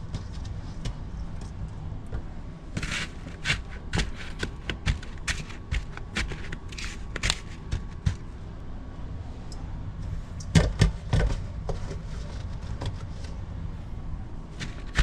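Snow being scooped and packed by hand: a run of irregular scrapes and light clicks, with a few louder knocks about ten to eleven seconds in.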